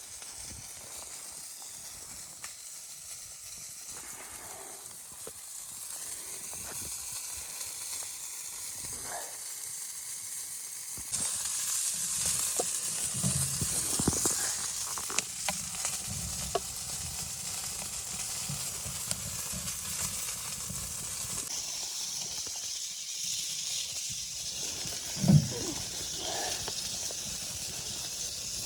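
Steady hiss with scattered light clicks and low knocks. The hiss grows louder abruptly partway through, and there is a single louder thump near the end.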